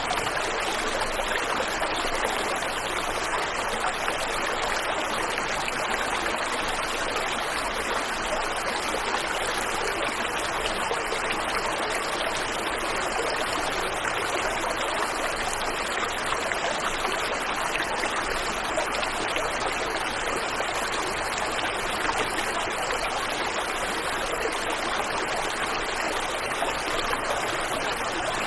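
Waterfall and river water rushing steadily, an even hiss of flowing water.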